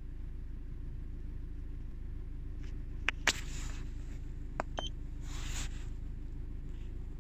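Car engine idling at about 800 rpm, a steady low hum heard inside the cabin. A few sharp clicks of keys being pressed on a handheld OBD scan tool come about three and four and a half seconds in, one with a short beep, followed by a brief rustle.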